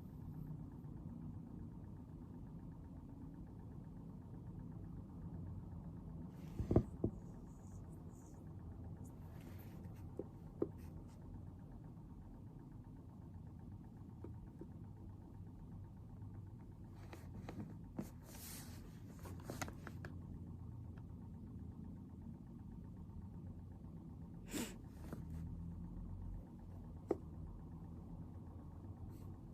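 Low steady room hum with scattered small desk sounds of someone studying: a few sharp clicks and taps, and short rustles around the middle, like pen and paper being handled.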